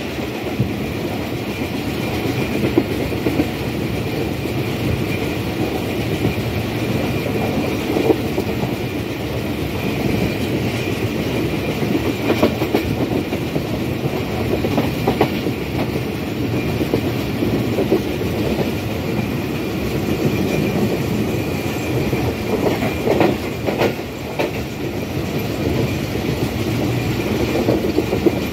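Millat Express passenger train running on the track: a steady rumble of wheels and carriages with a few scattered clanks.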